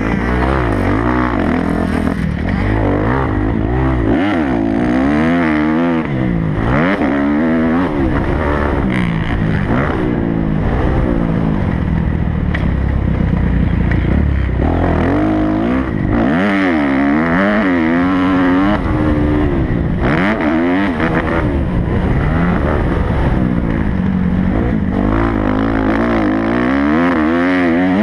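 Kawasaki motocross bike engine ridden hard around a dirt track, its pitch rising and falling again and again as the rider opens and closes the throttle through the sections.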